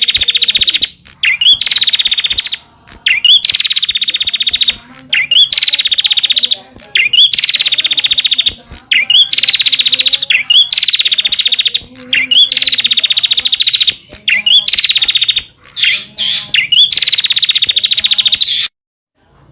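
Prinia (prenjak) song: the same phrase repeated about every two seconds, each a quick rising note and then a fast, buzzy trill, played as a tutor recording for caged birds. It cuts off suddenly near the end.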